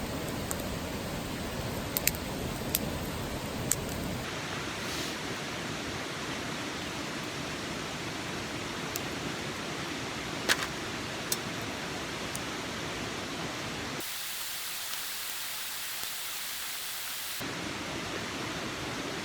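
Open wood campfire crackling: a steady hiss with a handful of sharp pops scattered through it.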